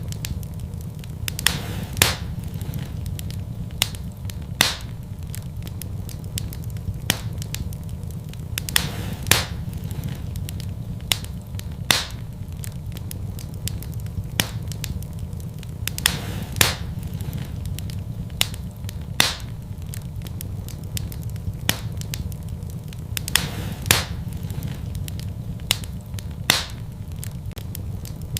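Wood fire burning in a fireplace: irregular sharp crackles and pops, a few of them louder snaps, over a steady low rumble of the flames.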